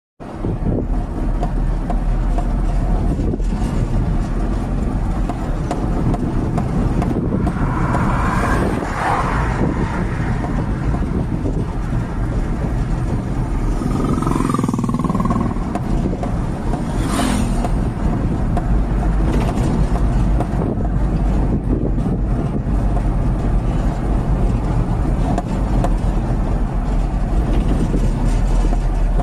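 A vehicle in motion: a steady, rumbling mix of engine and road noise, with a few brief louder sounds partway through.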